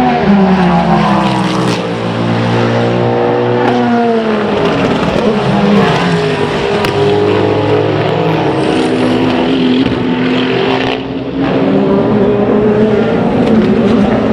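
Racing car engines passing at speed, several heard at once, their notes falling in pitch as they go by and rising again as they accelerate, with a brief drop in level about eleven seconds in.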